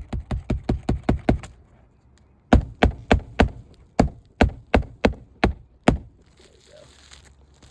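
Hammer driving a roofing nail through an asphalt shingle: a quick run of about eight light taps, then after a short pause about ten harder, slower blows until the nail is in.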